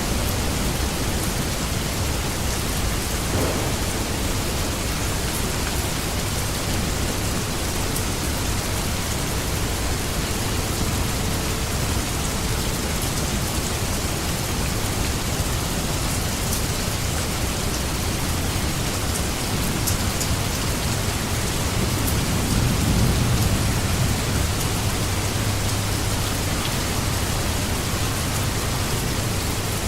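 Steady rain falling on a surface: an even hiss with scattered fine drop ticks. A low rumble swells briefly about two-thirds of the way through.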